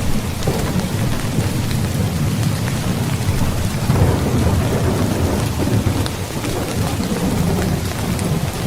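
Steady heavy rain falling, with a low rumble of thunder that swells about four seconds in.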